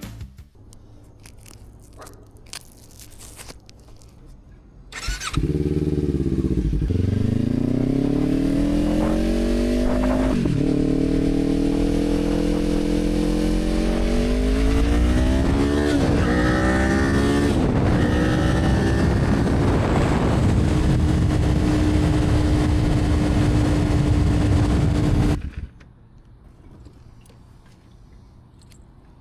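Motorcycle engine accelerating hard through the gears: its pitch climbs and drops back at several upshifts, then holds a steady note at cruising speed. It comes in suddenly about five seconds in and cuts off abruptly near the end, after a few quiet seconds with light clicks at the start.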